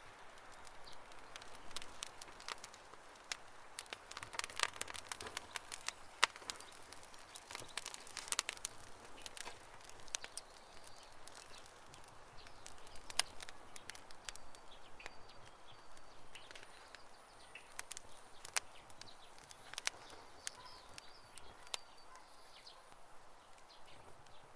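Campfire burning with irregular crackles and sharp pops, busiest in the first half and thinning out toward the end, over a soft hiss of the flames. Faint high chirps can be heard in the background in the second half.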